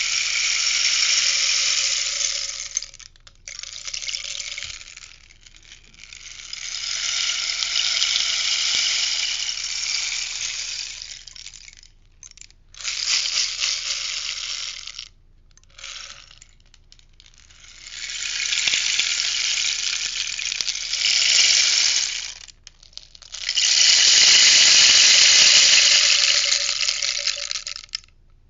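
Rainstick tipped over and over, its pebbles cascading down inside with a steady hissing patter; each pour lasts a few seconds, then it stops briefly as the stick is turned, about six pours in all, the last two the loudest.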